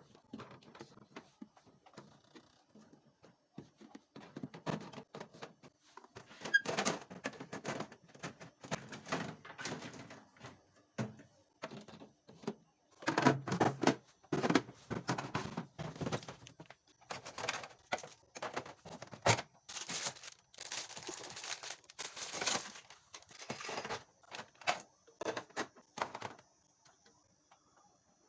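Food containers being handled, with irregular clicks, knocks and clatter in clusters that stop shortly before the end.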